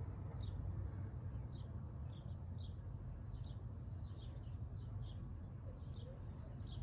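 Small birds chirping: short, high chirps about once or twice a second, irregularly spaced, over a low steady background rumble.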